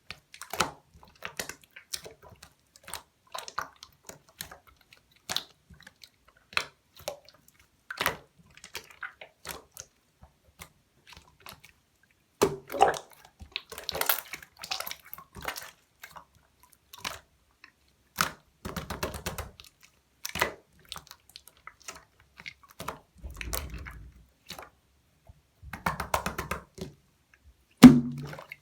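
Clear slime being pressed, poked and stretched by hand, giving irregular sticky clicks with a few longer stretches of squishy crackling and one loud snap near the end.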